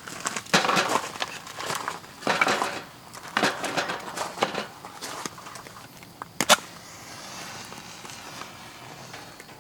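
Irregular knocks, clicks and rustles in clusters, with one sharp click about six and a half seconds in, then a faint steady hiss.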